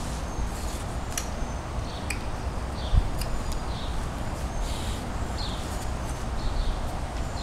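Small birds chirping in short, high, scattered calls over steady low outdoor background noise, with a soft thump about three seconds in.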